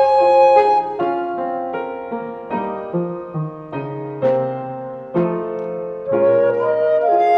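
Piano playing a slow passage of single struck notes and chords, a new note or chord about every half second to second, within a flute-and-piano piece of offertory music.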